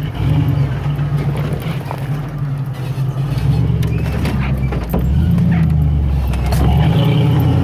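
A 4x4's engine running in low gear on a rocky trail, the throttle opening up about halfway through and again near the end, with scattered knocks and rattles from the vehicle body, heard from inside the cabin.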